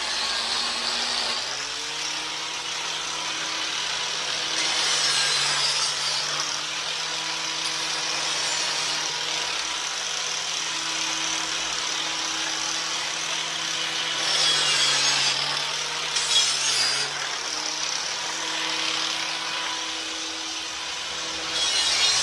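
Angle grinder with a surface preparation pad scouring rust scale off a metal fuel tank strap, its motor running steadily. The scraping grows louder several times as the pad is pressed harder, and the motor's pitch dips a little under the load.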